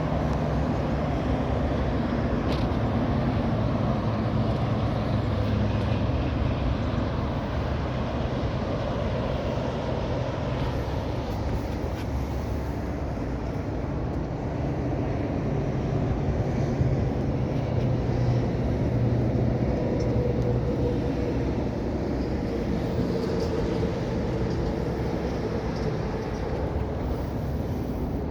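1967 Oldsmobile 442's 400 cubic-inch V8 running steadily, with a low, even engine note that swells only slightly now and then.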